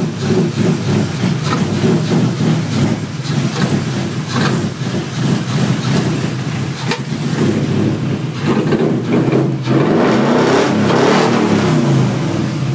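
Freshly built engine of an S197 Ford Mustang running, still untuned, its level rising and falling unevenly and swelling a little about ten seconds in.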